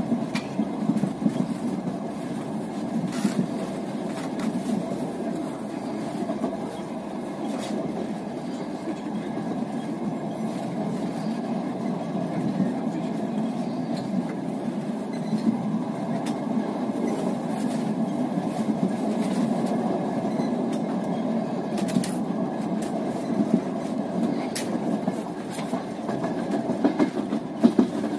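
Moving passenger train heard from inside the coach: a steady rumble of the wheels on the track, with a few isolated sharp clicks.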